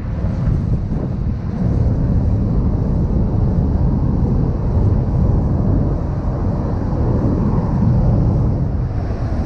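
Storm-force wind of about 30 metres per second buffeting the microphone: a loud, steady, deep rumble with no pauses.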